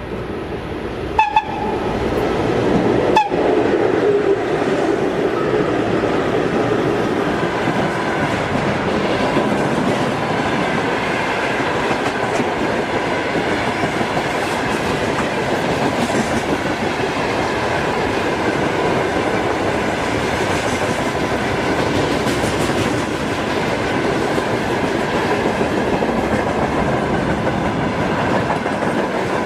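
Freight train hauled by a VL10U electric locomotive passing: a short horn blast about a second in, then the wagons rolling by steadily on the rails.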